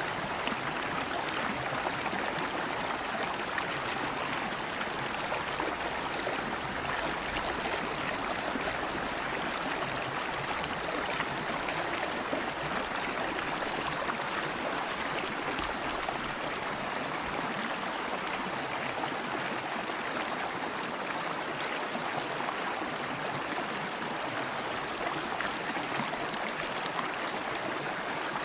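River water flowing steadily over rocks, a constant even rush with no breaks.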